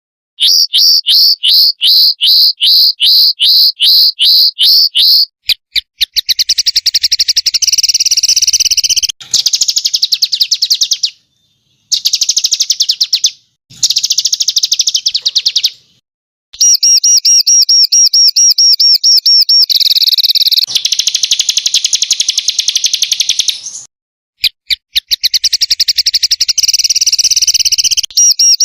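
Small songbirds singing in loud, high-pitched bursts of rapid repeated notes and fast buzzing trills, the 'tembakan kasar' (harsh shots) of a bird-training recording. The song comes in spliced segments that break off abruptly with short silences between them.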